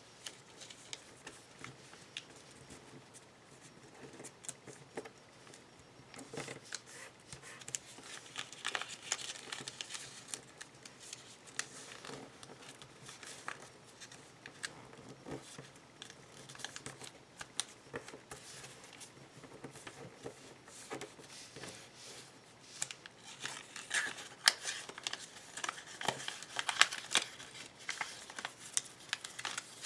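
Sheet of origami paper being folded and creased by hand: irregular rustling and crinkling with short, sharp crease strokes, growing busier and louder in the last several seconds.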